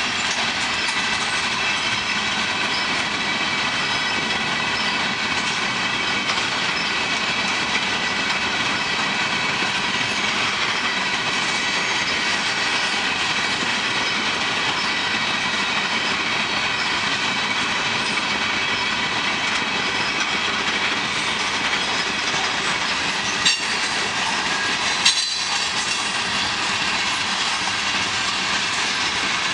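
Freight cars of a long manifest train rolling steadily past, with continuous wheel-on-rail noise and a faint high-pitched squeal. Near the end come two sharp clanks about a second and a half apart.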